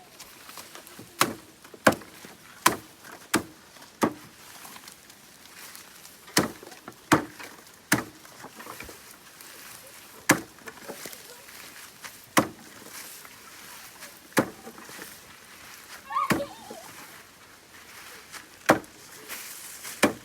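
Napier grass stalks being cut by hand with a blade: a string of about a dozen sharp chopping strikes, irregularly spaced, roughly one every second or two.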